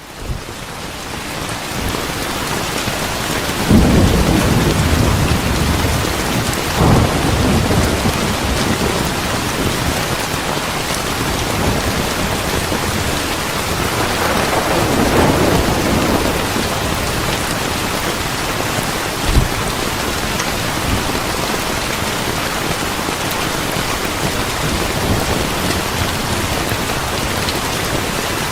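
Steady heavy rain with thunder: a sudden low rumble about four seconds in, another about three seconds later, and a longer rolling rumble around the middle. The rain swells up over the first couple of seconds.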